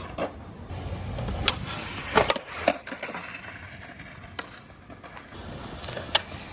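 Skateboard wheels rolling on pavement with a low rumble that stops abruptly about two seconds in, followed by a few sharp wooden clacks of the board striking the ground, then a couple of fainter knocks.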